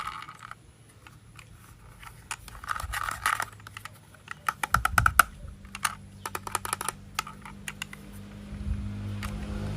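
Rapid clicks and rattles of plastic toy train parts being handled and fitted together, with a low steady hum starting about five seconds in.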